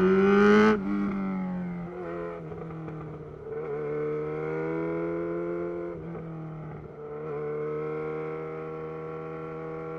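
Yamaha XJ6's inline-four engine through a Black Widow full exhaust, revving up and then cut off sharply just under a second in. It then runs on at a steady, lower engine speed, with brief throttle lifts about two seconds in and again around six to seven seconds.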